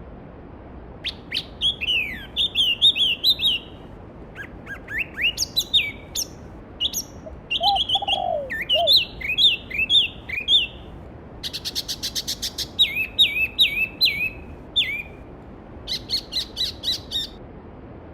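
Songbirds singing in a string of short phrases of whistled, sliding notes and two fast trills, with a brief lower call in the middle. Beneath them runs the steady rush of a mountain stream.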